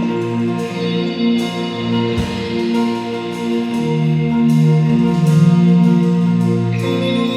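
Worship band playing an instrumental introduction with guitar, sustained chords and percussion, without singing.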